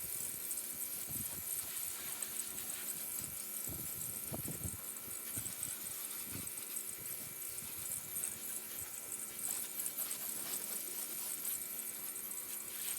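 Water spraying from a hose or spray nozzle while rinsing a car's engine bay, a steady even hiss.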